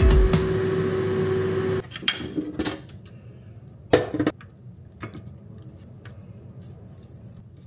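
Background music ends about two seconds in. Kitchen clatter follows: a knife and fork on a wooden cutting board, an air fryer basket set down with a loud clatter about four seconds in, then a fork clinking in the basket as roasted potatoes are served.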